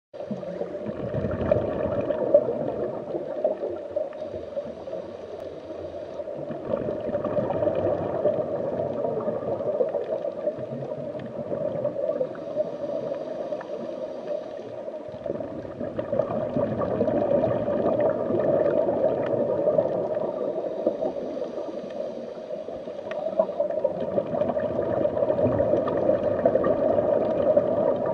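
Aquarium aeration bubbling and gurgling continuously: air from a sponge filter's air line rising through the tank water, swelling and easing every few seconds.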